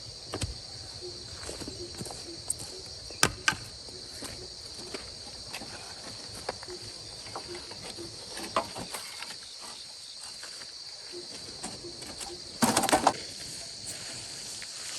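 Insects, crickets or cicadas, chirring steadily, with scattered sharp knocks and clicks, two louder ones about three seconds in, and a brief louder rustling noise near the end.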